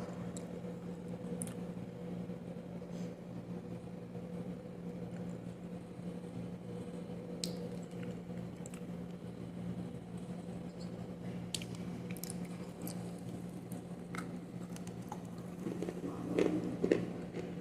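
Close-miked chewing and biting of dry kaolin clay: scattered soft crunches and wet mouth clicks, with a denser run of crunching near the end, over a steady low hum.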